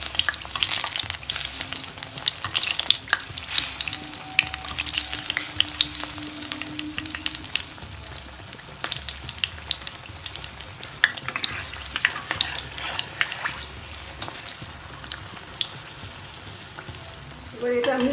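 Mango malpua batter deep-frying in vegetable oil over medium heat, sizzling with dense crackles and pops. The crackling thins out about halfway through, with a brief busier flurry soon after.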